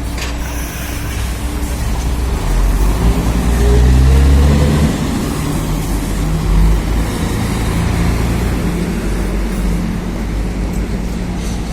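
Motor vehicle engine and road noise, a steady low rumble; a few seconds in the engine note rises as it accelerates, then settles.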